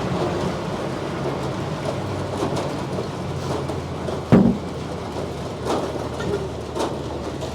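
Frick sawmill running steadily as the log carriage is run back along its track after the cut. A single heavy knock comes about four and a half seconds in, and a few lighter clanks follow.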